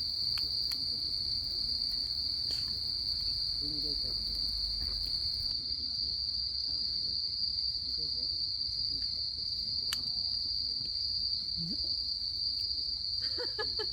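Crickets trilling in a night insect chorus, one steady high-pitched band.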